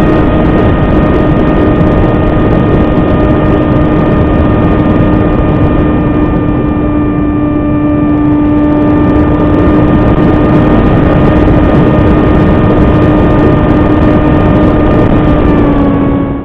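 Electric RC model plane's brushless motor and propeller running at a steady high pitch over a loud rush of air noise. The pitch sags slightly midway and again just before the sound cuts off suddenly.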